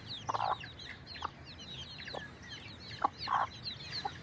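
Chicks peeping constantly in short, falling high chirps, with a hen giving two short, harsh clucks among them.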